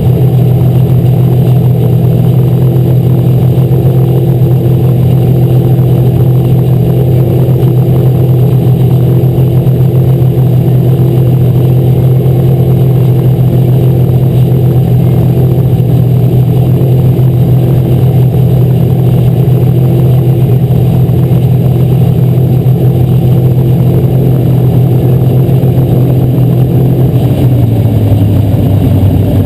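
Asphalt modified race car engine running loud at a steady pitch, its note dropping lower near the end as the revs fall.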